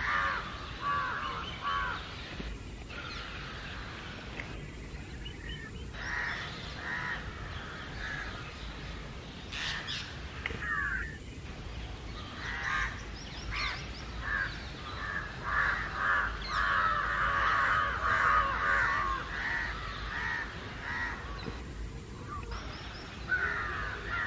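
A flock of house crows and jungle crows cawing over one another in a sustained alarm chorus. Calls come in irregular runs, thickest in a dense stretch past the middle.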